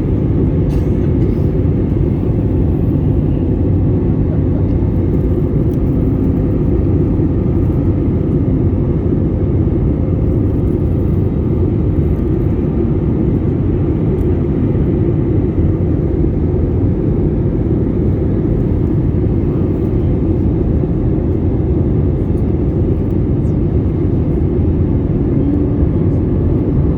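Steady low cabin noise of a Boeing 787-8 jet airliner in flight: engine and airflow noise, even and unchanging throughout.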